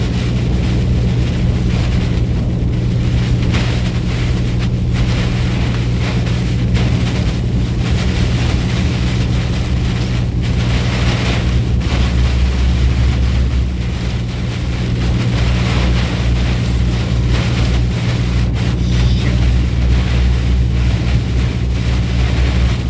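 A truck under way: a steady low engine drone with road and wind noise.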